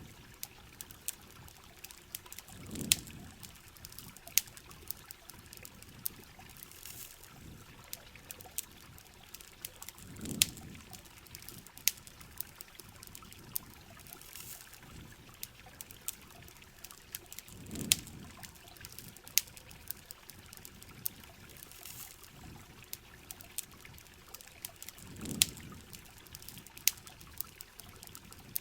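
Steady rain mixed with a crackling campfire, its sharp pops and snaps scattered irregularly over the hiss of the rain. A soft low whoosh rises and fades about every seven and a half seconds.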